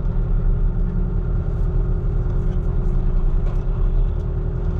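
Diesel engine of heavy logging equipment running steadily: a deep, even rumble with a faint steady hum over it.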